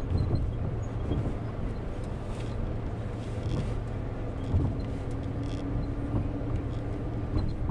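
Minivan driving slowly over gravel ballast, heard from inside the cabin: a steady low rumble of engine and tyres, with a faint steady hum joining about halfway through.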